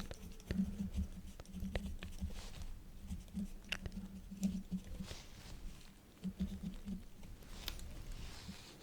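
Quill pen nib scratching across paper in short, irregular strokes, with small sharp ticks and taps between them.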